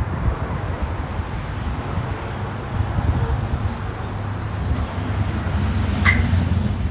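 Street traffic noise with a low rumble of wind buffeting the microphone. A short, high squeak sounds once about six seconds in.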